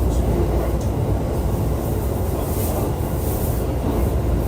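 Interior running sound of a JR East E531 series electric train under way: a steady low rumble of wheels on rail, with a couple of faint clicks in the first second.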